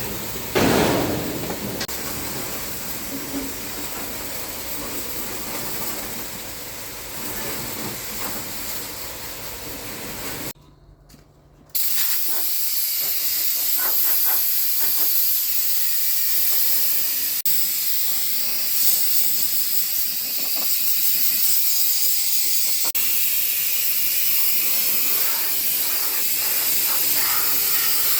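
Steady, loud hissing of a high-pressure jet working on machinery, broken off for about a second near the middle and then going on with a sharper, higher hiss.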